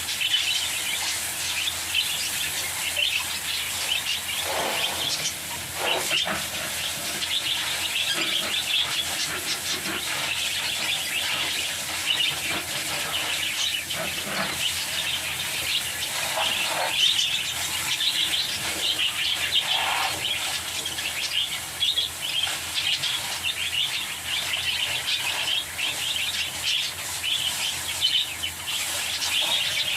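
A flock of lovebirds chattering and chirping in rapid, high-pitched calls without a break, with a few short knocks now and then.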